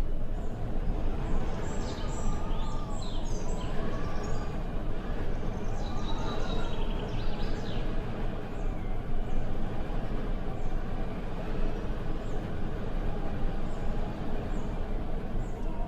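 Wind blowing steadily with a deep rumble, and small birds chirping over it: a run of short high chirps repeats throughout, with a few busier calls in the first half.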